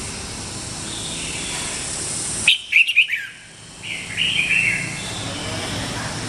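Red-whiskered bulbul singing: a loud burst of quick chirping notes about two and a half seconds in, then a second short warbled phrase about a second later, over a steady background hiss.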